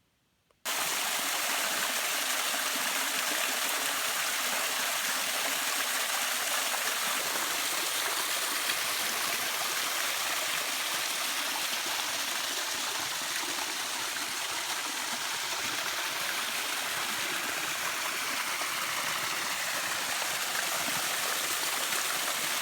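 Steady rushing of a woodland brook and small waterfall, starting abruptly about a second in.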